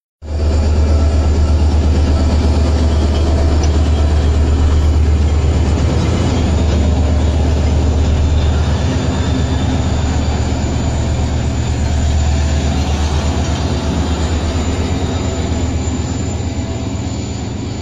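Passenger train hauled by a Henschel diesel locomotive passing at close range at speed: a loud, steady, deep rumble mixed with the noise of the coaches going by.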